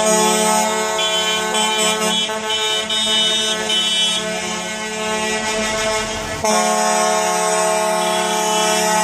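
Scania truck air horns sounding in long held blasts, several tones at once, with a run of short repeated notes in the first few seconds. The horns ease off about halfway through and come back loud about six and a half seconds in.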